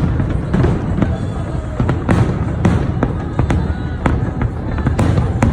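A fireworks display: shells bursting in a quick, irregular run of sharp bangs, several a second, over a steady low rumble of continuous explosions, with music playing underneath.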